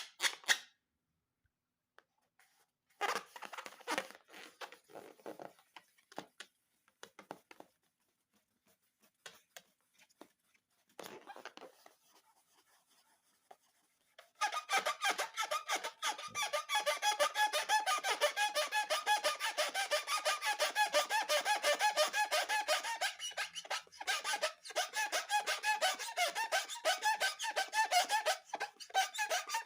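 Rubber balloons squeaking as they are rubbed and handled, in rapid runs of squeaks: a few short bursts at first, then an almost unbroken stretch of fast squeaking through the second half.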